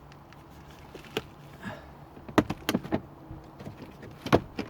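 Car dashboard trim being handled during removal: a scatter of sharp clicks and knocks, the loudest about two and a half seconds in and again near the end.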